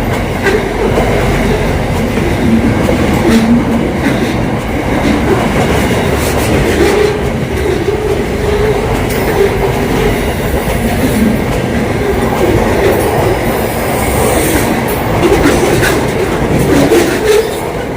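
A train running along the track: a steady, loud rumble of wheels on rail, with a few scattered clicks.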